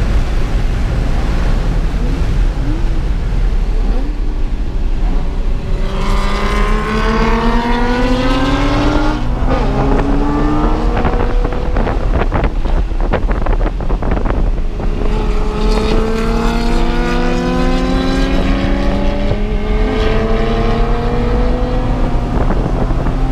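A Porsche Cayman's engine, heard from inside the cabin under hard acceleration on track. The engine note climbs and falls back at each upshift, several times over. There is a steady low rumble of road and wind noise underneath, and a stretch of sharp clattering noises about halfway through.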